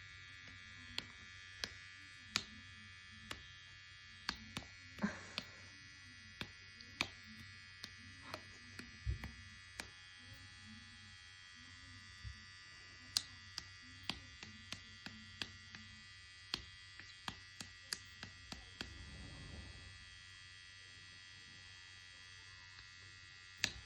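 Small electric pet hair trimmer running with a steady high buzz while the fur around a cat's paw pads is trimmed. Sharp irregular clicks and taps come over it every second or so.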